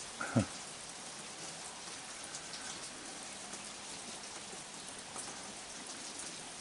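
Heavy rain falling steadily, with scattered close drop ticks. A brief louder sound, falling in pitch, comes just after the start.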